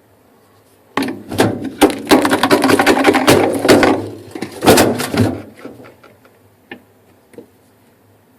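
Rapid mechanical clicking and rattling as a tool backs out the small bolts holding the freezer's bottom panel. It starts about a second in, runs for about four seconds, and is followed by a few scattered knocks.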